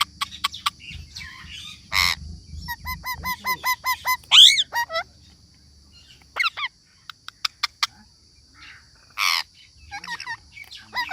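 Parrot calling: two harsh squawks, one about two seconds in and one near the end. Between them come a quick run of short repeated chirps, a loud swooping call and scattered sharp clicks.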